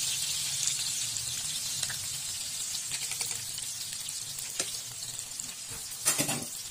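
Spring rolls sizzling in shallow oil in a frying pan, a steady hiss with scattered small crackles that slowly gets quieter. A brief louder burst of noise comes about six seconds in.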